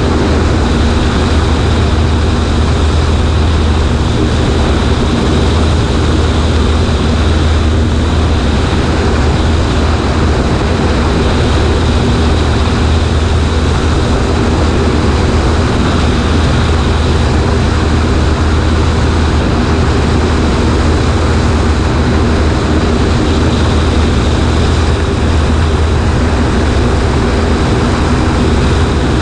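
Cessna 140A's four-cylinder engine and propeller droning steadily, heard from a wing-mounted camera with air rushing past it.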